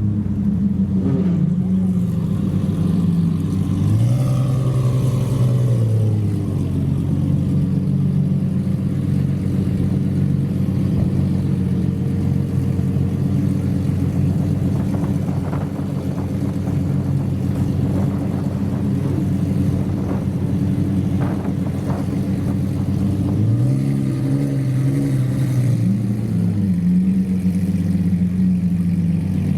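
A supercar engine idling, its pitch rising and falling back twice as it is lightly revved, about four seconds in and again near the end.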